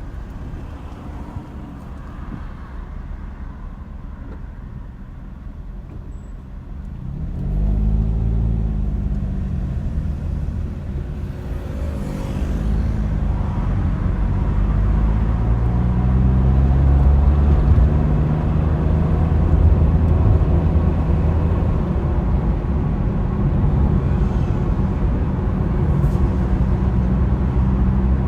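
Car engine and road noise: a low, quiet idle for about seven seconds, then the engine note rises and drops several times as the car pulls away through the gears, settling into louder, steady running.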